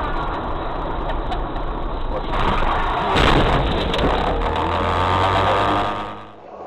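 Vehicle road and engine noise picked up by a dashcam, with one loud bang a little over three seconds in: a vehicle collision.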